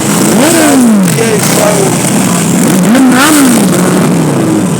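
Several motorcycle engines revving as they ride past, their pitch climbing and dropping again every second or so.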